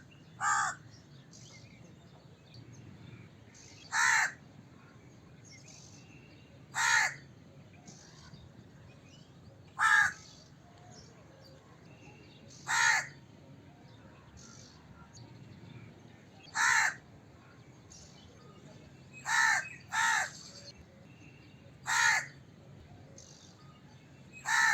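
A crow cawing: single harsh caws about every three seconds, with two caws in quick succession a little past the middle. Fainter caws sound between the loud ones.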